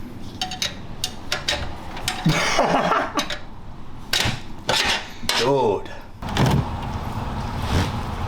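Irregular metallic clicks and knocks of a hand wrench straining against a stuck fastener under a car during an oil change, with short bursts of voice.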